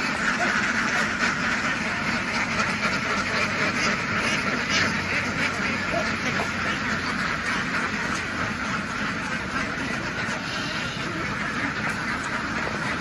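A large flock of domestic ducks quacking all at once, a dense, unbroken chorus of overlapping calls.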